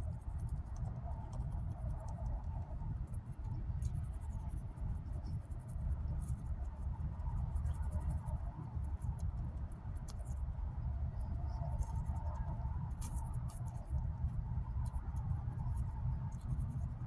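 Toothbrush scrubbing teeth: a rapid, scratchy brushing over a steady low rumble.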